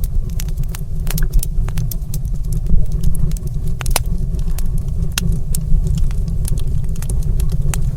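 Wood fire in a stone fireplace crackling, with frequent irregular sharp pops and snaps over a steady low rumble.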